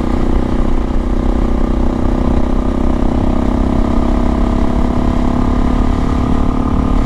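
Suzuki DR-Z400S single-cylinder four-stroke engine running steadily under way through an FMF PowerCore slip-on exhaust. Its pitch rises slowly in the second half as the bike gains speed.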